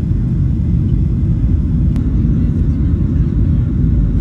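Steady low rumble of an airliner cabin in descent on final approach, engine and airflow noise heard from inside, with a faint click about halfway through.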